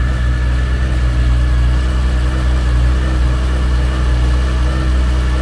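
Air-cooled flat-six engine of a rebuilt 1968 Porsche 911 idling steadily at an even, unchanging speed.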